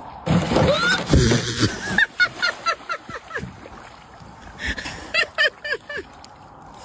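An animal giving two quick runs of short, honking calls, about five a second, after a burst of noise in the first second and a half.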